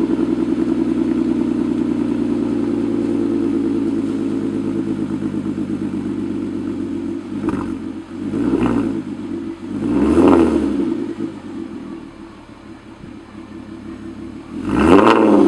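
Volkswagen Golf R32 Mk4's 3.2-litre VR6 engine on a cold start, heard through a resonator-deleted exhaust with a flapper mod. It runs at a steady fast idle, then is blipped three times in quick succession about halfway through. It settles to a quieter idle, and one bigger rev comes near the end.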